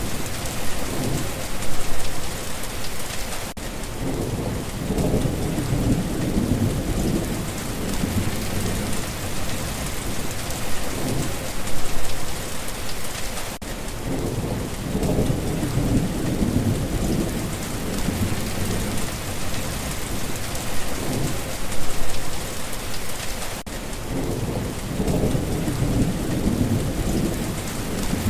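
Steady rain with low rolling thunder that swells and fades several times. The same stretch of rain and thunder repeats about every ten seconds, a looped recording.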